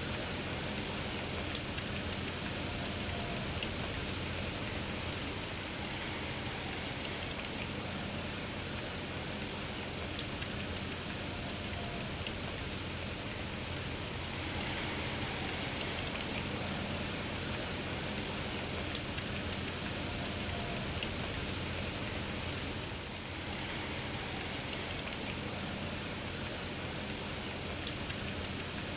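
Steady rain falling, with a sharp tick about every nine seconds, four in all.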